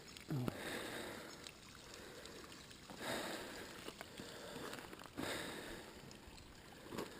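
Faint running water from a natural spring, a soft steady flow that swells a little a few times.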